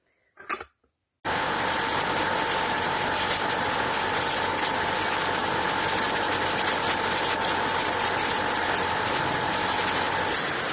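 A machine starts abruptly about a second in and runs with a dense rattling noise and a steady whine. The whine stops near the end while the noise continues.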